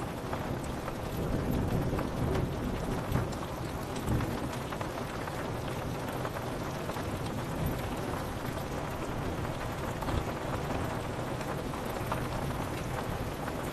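Steady rain pattering on a window, with a low rumble of thunder swelling in the first few seconds and then easing back.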